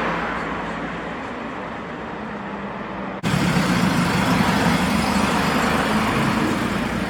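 Road traffic noise from passing cars. It breaks off abruptly about three seconds in and resumes louder and heavier in the low end.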